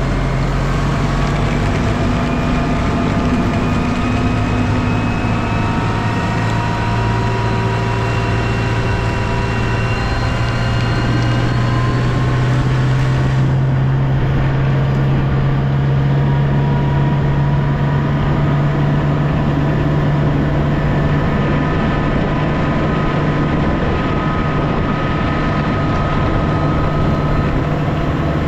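A vehicle engine running steadily under load, its pitch drifting slowly up and down.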